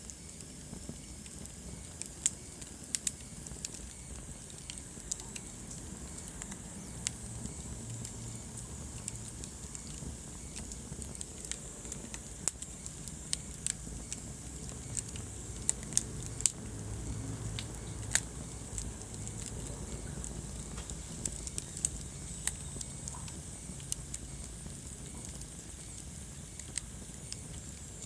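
Wood fire crackling in a fireplace: irregular sharp pops and snaps, a few louder than the rest, over the low steady rumble of the burning logs.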